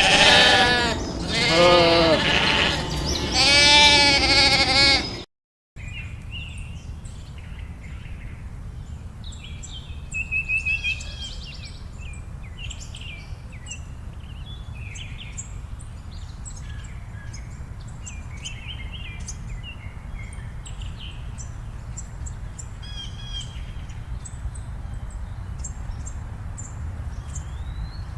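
An animal bleating loudly three times in the first five seconds, each call wavering in pitch. After a short break, a low steady rumble with scattered high bird chirps.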